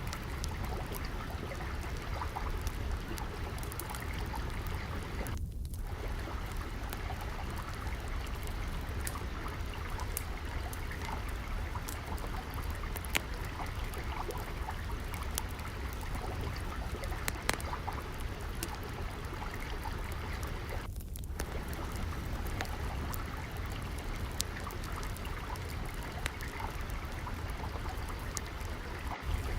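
Water trickling and flowing steadily, with scattered sharp pops and crackles of a wood fire, the flow dipping out for a moment twice.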